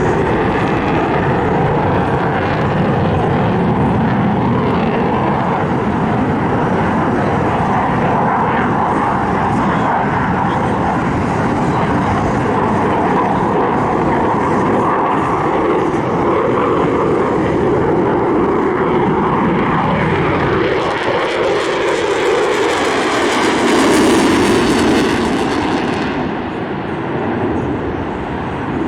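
An airplane's engine noise runs continuously as it flies past, swelling to its loudest a few seconds before the end and then dropping off sharply.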